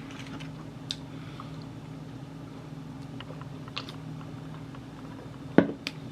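Eating and handling fried chicken: scattered small clicks and taps, with one sharper knock about five and a half seconds in, over a steady low hum.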